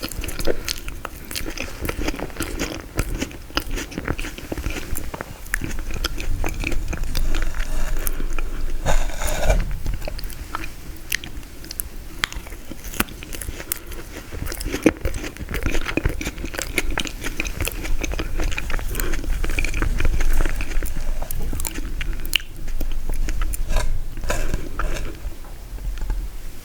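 Close-miked chewing and biting of frozen tiramisu, a run of irregular crunchy, crackly bites and wet mouth sounds.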